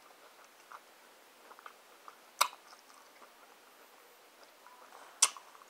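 A person chewing food with soft, wet mouth noises, with two sharp clicks about two and a half and five seconds in.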